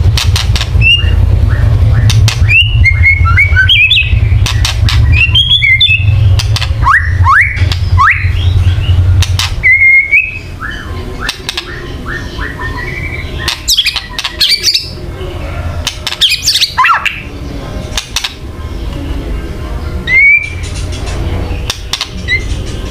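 White-rumped shama (murai batu) giving harsh crackling 'kretekan' calls: rapid sharp clicks mixed with short whistled notes and quick up-and-down pitch sweeps, the aggressive chatter of a bird in fighting mood. A low hum runs under the first half and stops about ten seconds in.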